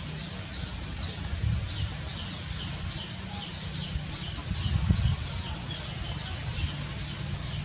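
A bird calling over and over in short, high, falling notes, about two to three a second, over a low rumble.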